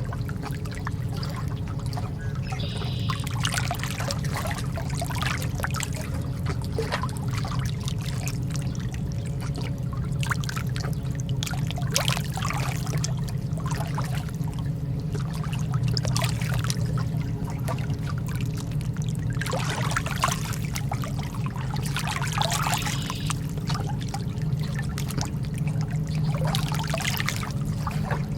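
Lake water lapping and splashing gently, with a small wavelet or splash every few seconds over a steady low rumble.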